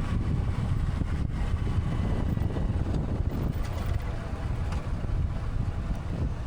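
Wind buffeting the microphone on a moving motorcycle: a steady, rough low rumble.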